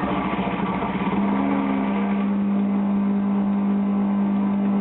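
Aqualisa Quartz shower pump and control unit giving a rapid pulsing buzz that, about a second in, settles into a loud steady hum. It is a fault noise: clearly something is wrong inside the unit.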